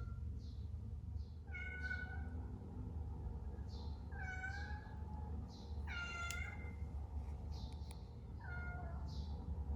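Domestic cat meowing four times, each call about half a second long, rising then falling in pitch. Faint short high chirps come between the calls over a steady low hum.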